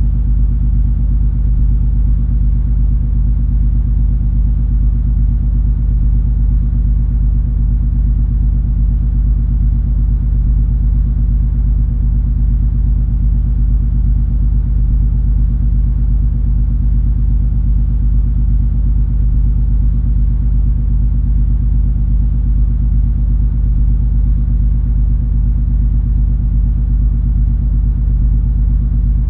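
Cruise ferry MS Color Magic under way: a steady, deep drone from the ship's engines, with a constant low hum and no change in pace.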